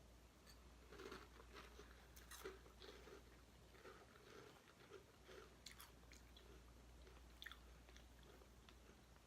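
Faint chewing of a mouthful of Cap'n Crunch's Chocolatey Berry Crunch cereal: a run of soft crunches and small mouth clicks, a few a second.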